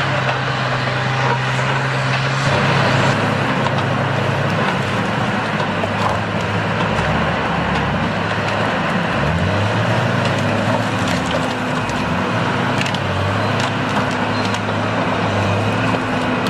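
A heavy machine's engine runs steadily, dipping and rising in pitch a few times midway as its load changes, with wood cracking and splintering over it.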